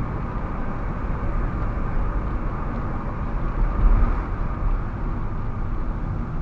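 Steady low rumble of a car's engine and tyres on the road, heard from inside the moving car, swelling slightly about four seconds in.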